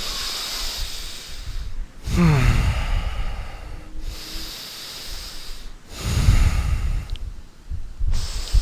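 A person taking slow, deep breaths in and out close to the microphone, as in yogic breathwork; one exhale about two seconds in opens with a falling voiced sigh.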